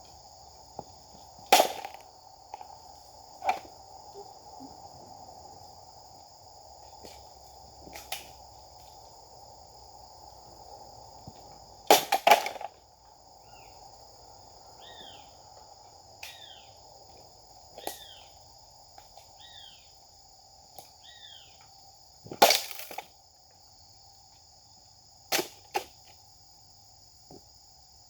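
Sharp cracks of a Japanese sword cutting through targets: several separate strikes a few seconds apart, the loudest about one and a half, twelve and twenty-two seconds in. Under them is a steady insect drone, and a bird gives a run of short falling chirps in the middle.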